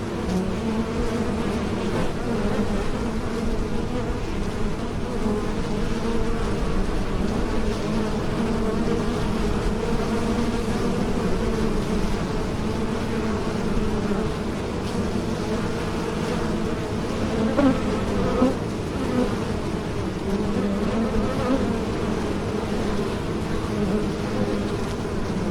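Bees buzzing in flight: a steady drone with a wavering pitch, with two brief louder swells a little past two-thirds of the way through as a bee passes close.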